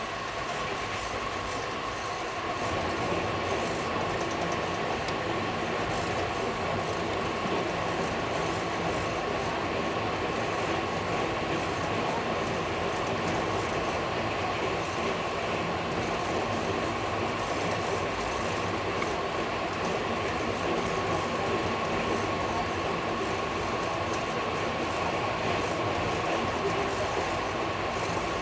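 A passenger train running at speed, heard on board: steady rumble and rush of the wheels on the track, with a constant thin whine above it. The noise steps up in loudness about two and a half seconds in.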